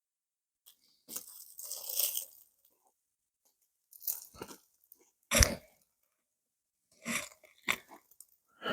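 A person biting and chewing hot grilled fish, in several short crunching bursts with pauses between, and one sharp knock about five seconds in.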